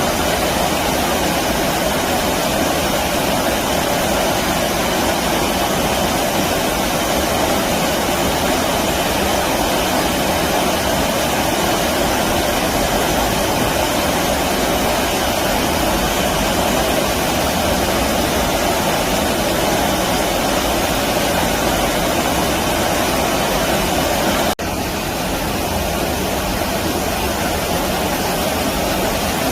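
Stream water rushing steadily. There is an abrupt cut about 24 seconds in, after which the rush is slightly quieter.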